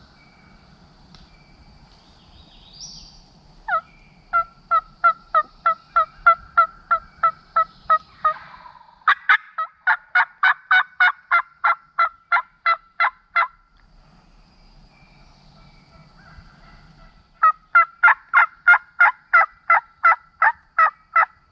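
Turkey yelping: three long runs of evenly spaced yelps, about three to four a second, the middle run the loudest. A hen turkey and a hunter's turkey call are yelping back and forth, the call pushing to out-yelp the hen and fire her up.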